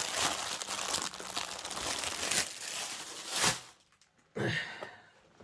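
Small plastic bags of diamond-painting drills crinkling and rustling as they are handled, stopping about three and a half seconds in. A short voice-like sound follows near the end.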